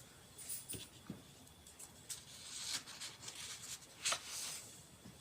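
Pen scratching on paper in a few short, uneven strokes while writing, with a louder stroke about four seconds in.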